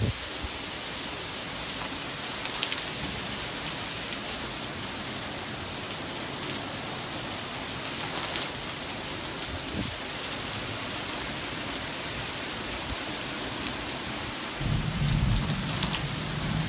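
Heavy rain pouring steadily, a dense even hiss of downpour with a few faint drips. A low rumble comes in about two seconds before the end.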